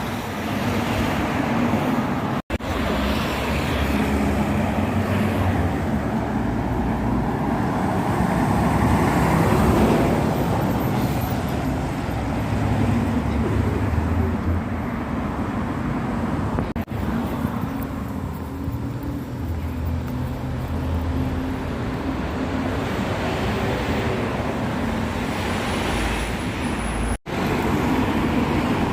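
Road traffic and heavy vehicle engines running steadily, broken by two brief dropouts, one about two seconds in and one near the end.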